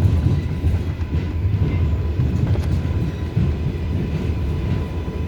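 Inside an R188 subway car on the 7 line, the train runs with a steady low rumble as it pulls into the Flushing–Main Street terminal, with a faint steady high tone above the rumble.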